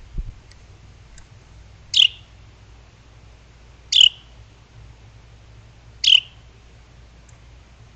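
A bird calling three times, about two seconds apart: short, sharp, high notes that each sweep downward.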